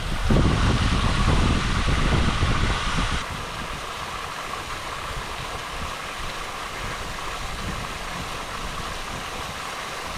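Wind buffeting the microphone in a loud, rumbling gust that stops abruptly about three seconds in, leaving a steady outdoor hiss.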